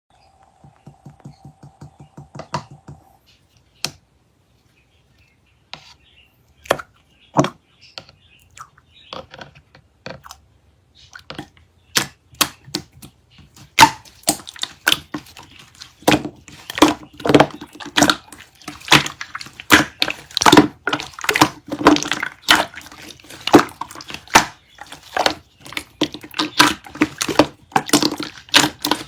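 Irregular sharp clicks, taps and crackles, sparse at first and then coming thick and fast from about halfway through. A faint steady tone sounds for the first three seconds.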